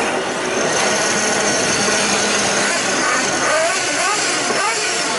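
Radio-controlled 4WD short course trucks racing on the track: a steady dense wash of motor and tyre noise, with individual motors whining up and down in pitch as the trucks accelerate and brake.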